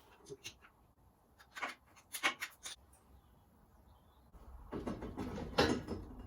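Scattered clicks and metal clinks of hand tools and parts being handled while the turbo's fittings are undone, followed near the end by a second or so of scraping and knocking.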